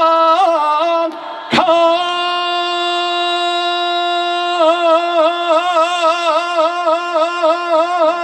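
A male trot singer holds the final long note of a live song, sung into a microphone. About a second and a half in there is a short break and a breath. The note then holds steady, and after about three seconds it swings into a wide vibrato that carries on.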